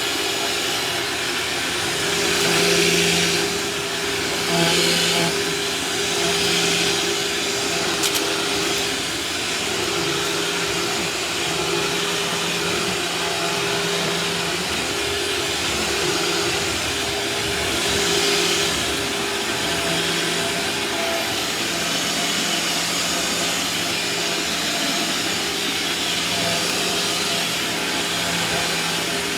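Vacuum cleaner running steadily while vacuuming a floor: a constant motor hum under a broad rushing hiss, and the hiss swells briefly a few times.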